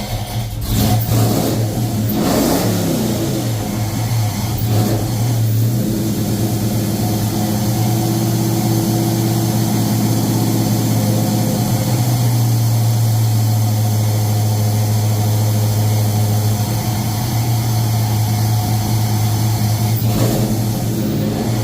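A 1970 Chevy C10 pickup's fuel-injected engine running on its first start-up, revved briefly a couple of seconds in, then holding a steady fast idle. It won't settle lower than about 1200 to 1300 rpm, the sign of an idle that still needs adjusting on a fresh install.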